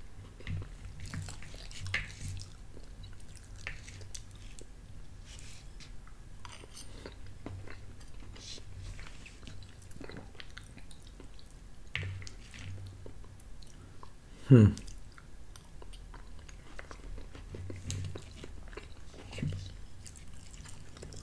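A man chewing mouthfuls of chicken pot pie, with scattered soft clicks and light scrapes of a fork in the bowl. A short falling vocal sound comes about two-thirds of the way through.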